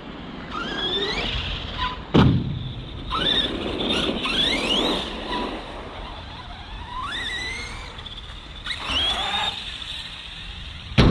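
ARRMA Outcast 4S stunt truck's electric motor whining up in pitch again and again as it is punched on the throttle. A sharp knock about two seconds in and another just before the end come from the truck hitting the ground.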